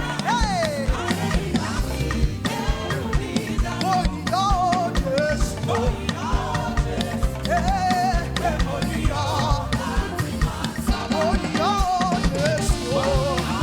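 Upbeat praise music from a live band, with a steady drum-kit beat, bass and a wavering lead melody line.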